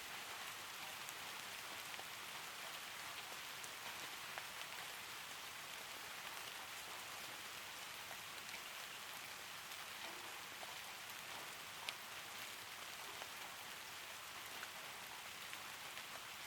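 Steady, soft rain: an even hiss of falling rain with scattered faint ticks of individual drops.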